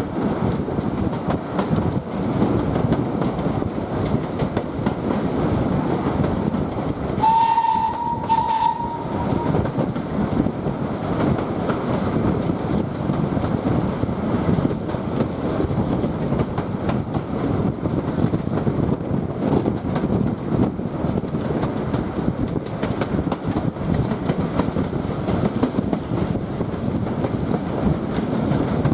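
Ride noise inside a carriage behind LSWR S15 steam locomotive No 506: a steady rumble of wheels on rails. About seven seconds in the locomotive's steam whistle sounds once, a single steady tone lasting about two seconds.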